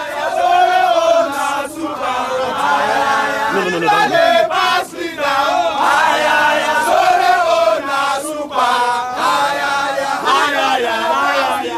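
A crowd chanting and singing in unison, loud and continuous, with long held sung notes and a few short breaks between phrases.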